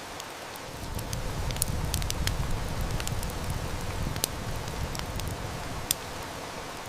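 Steady hiss of heavy rain with a wood fire crackling in scattered sharp snaps, the loudest about six seconds in. A low rumble of distant thunder swells about a second in and fades out by about five seconds.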